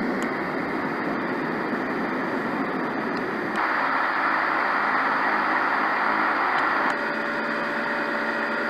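Roffie N600 sound machine playing steady white noise through its speaker, stepping to a different, brighter noise layer about three and a half seconds in and to another about seven seconds in.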